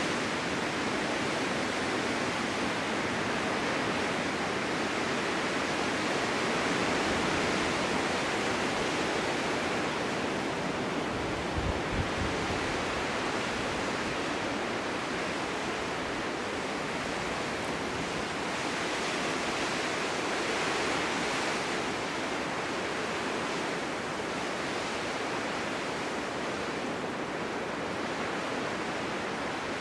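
Strong winter wind blowing steadily, swelling and easing a little, with a brief low buffet about twelve seconds in.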